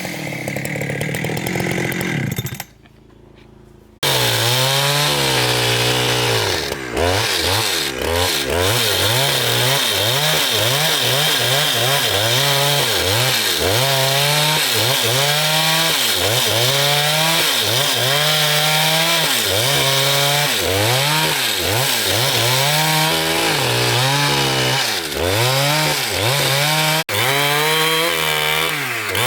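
Petrol-engine saw cutting through timber, its engine note dipping and recovering about once a second as it bogs under load in the cut. There is a short quieter break about three seconds in.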